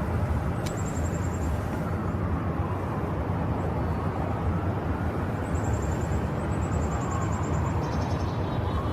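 Steady rumble and hiss of a snowstorm outdoors, with wind blowing on the microphone and traffic. Short, rapid, high-pitched ticking trills come about a second in and again from a little past the middle.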